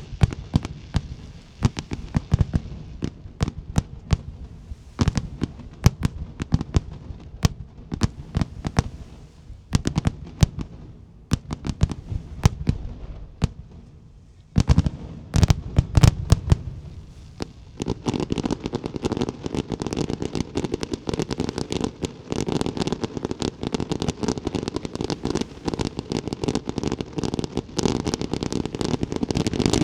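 Aerial fireworks bursting in a rapid series of sharp bangs and crackles, with a loud cluster of bangs about halfway through. From about two-thirds in they give way to a dense, continuous rattle.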